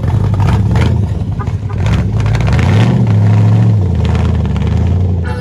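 Loud car engine rumbling, revving up a little past the middle, holding the higher pitch for about a second, then dropping back.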